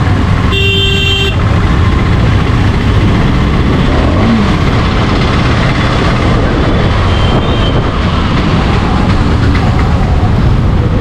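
KTM 390 Adventure's single-cylinder engine running under way, with steady wind and road noise. A vehicle horn sounds briefly about half a second in.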